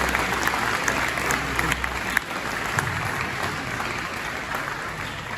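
A crowd applauding, dying down gradually over the last few seconds.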